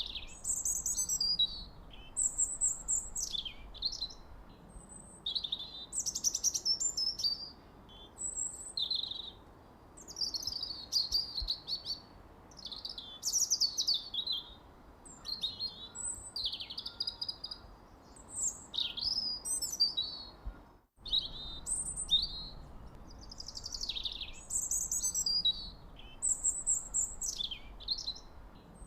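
Songbirds chirping and singing: quick high chirps, trills and sweeping whistled notes, one phrase after another with short pauses, broken by a split-second dropout about two-thirds of the way through.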